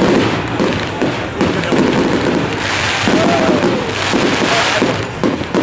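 Fireworks going off in a continuous run of bangs and crackles, with two stretches of hissing crackle around the middle.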